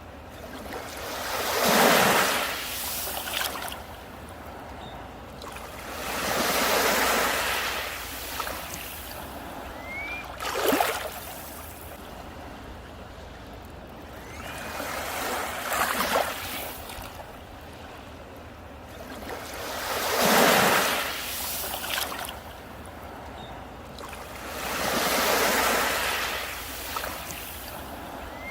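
Ocean waves breaking and washing onto a beach, each one swelling and fading, about every five seconds.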